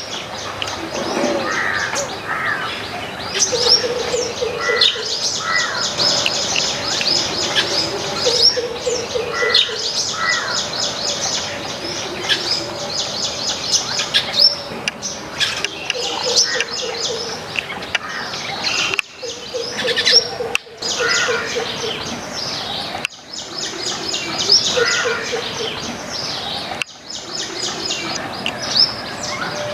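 Garden birds chirping: a dense, continuous chorus of high, rapid chirps, with short runs of a lower repeated note several times. The sound breaks off briefly a few times in the second half.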